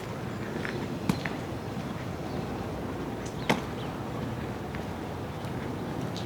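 Outdoor park ambience: a steady low background rumble with faint short high chirps, and two sharp clicks, one about a second in and a louder one about three and a half seconds in.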